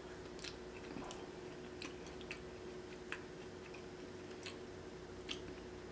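Faint wet mouth clicks and smacks of someone chewing snow crab meat and licking sauce off a finger, about ten short clicks spread unevenly through, over a steady low hum.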